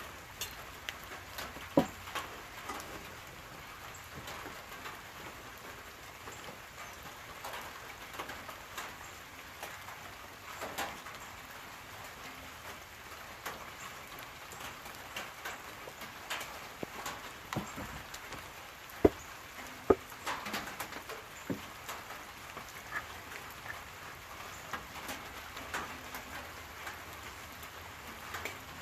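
Steady light rain falling, with individual drops landing close by. A few sharp knocks stand out, the loudest two about a second apart past the middle.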